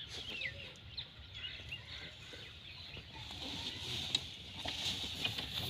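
Birds chirping and calling in rural outdoor ambience, over a low rumble, with a few faint clicks about four seconds in.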